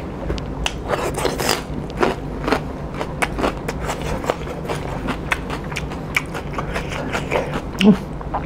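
Close-miked chewing and biting of pork and rice, with many small sharp clicks and wet mouth sounds.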